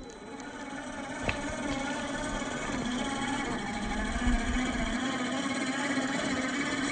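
Electric motor and gear drivetrain of a radio-controlled scale crawler truck whining steadily as it drives, with one sharp click about a second in.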